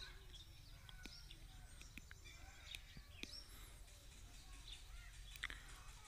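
Near silence, with birds chirping faintly in the background, a few soft clicks and a low steady hum.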